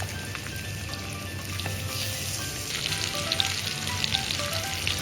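Spice-rubbed chicken pieces sizzling as they shallow-fry in hot oil in a pan. The hiss is steady with fine crackles, and it grows louder about halfway through.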